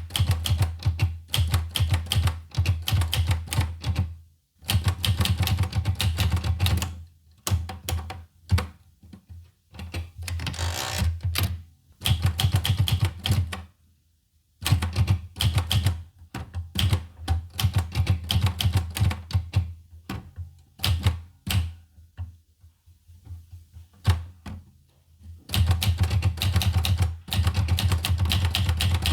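Olivetti Lettera 25 manual portable typewriter being typed on: rapid key strikes in runs of several seconds, broken by short pauses.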